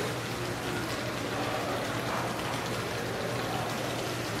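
Indoor fountain splashing steadily, with faint voices in the background and a low steady hum.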